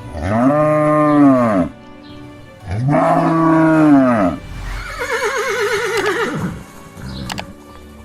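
Cow mooing: two long moos, each rising and then falling in pitch, followed by a higher, wavering call that drops away at the end. Music plays underneath.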